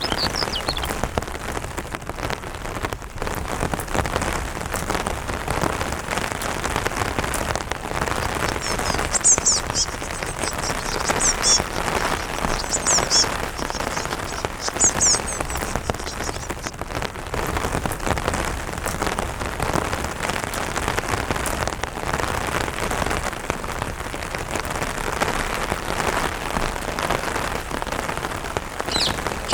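Rain falling on an umbrella, a dense steady patter of drops. High, thin bird chirps come in several short runs from about nine to fifteen seconds in.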